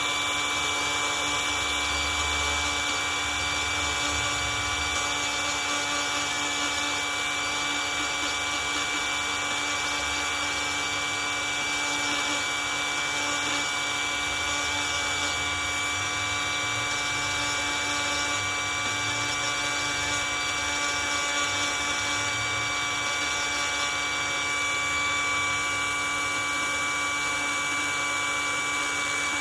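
Dremel rotary tool running at a steady high speed with a constant whine, its bit grinding out dings and cracks in fiberglass gel coat.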